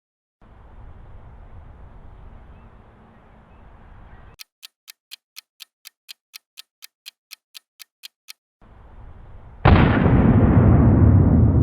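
A bomb timer ticking, about four sharp ticks a second for about four seconds, followed a few seconds later by a sudden loud explosion that rumbles on as it slowly dies away.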